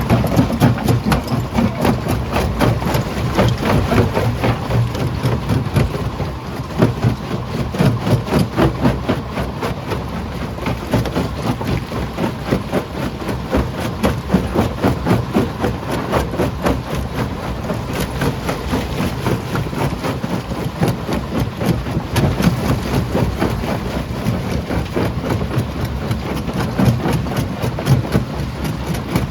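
Primary jaw crusher working on quarry rock: a continuous heavy machinery rumble under a dense, rapid clatter of stone knocking and cracking.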